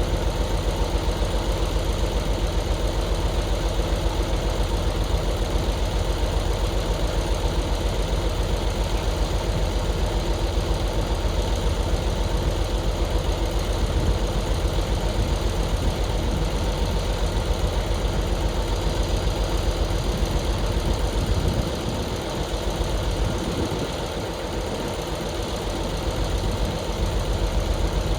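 Heavy diesel engine running steadily with a fast, even beat. It eases off for a few seconds about three-quarters of the way through, then picks up again.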